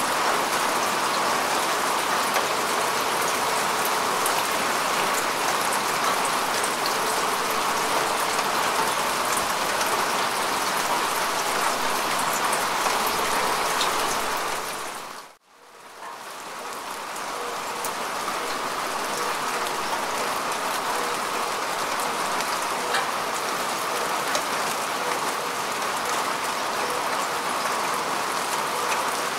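Steady rain falling on grass and earth: an even hiss with fine drop patter. About halfway through it fades to near silence for a moment, then swells back up.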